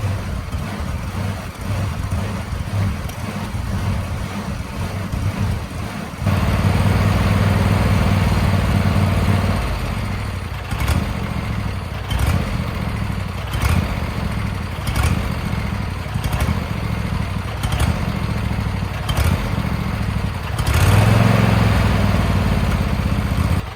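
Briggs & Stratton 21 hp engine of a John Deere LA120 riding mower running and warming up. Its speed is uneven, stepping up about six seconds in, pulsing about every second and a half, and swelling again near the end: the engine surges a little.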